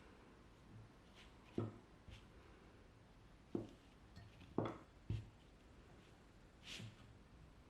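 Four soft knocks spaced irregularly, with a few light clicks and a brief rustle near the end: kitchen utensils or dough being handled on a work surface.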